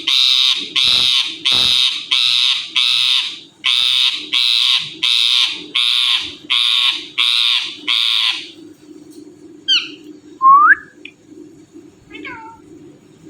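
Indian ringneck parrot screeching: a rapid series of about fifteen harsh calls, about two a second, with a short break a few seconds in. After the screeches stop, it gives a few short whistles, including one rising whistle.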